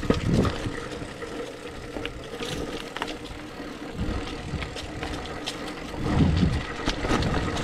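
Hardtail 29er mountain bike ridden along a dirt trail, its chain and frame clattering over bumps. Wind gusts buffet the microphone, hardest about six seconds in.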